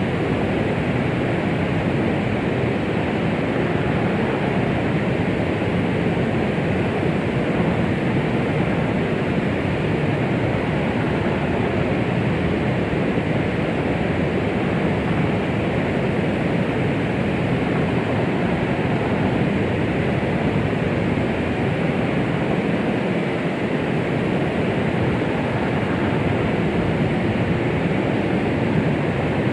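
Steady, unchanging noise weighted toward the low end, a muffled rushing hiss with no rhythm or events, played as womb-sound white noise for soothing a baby.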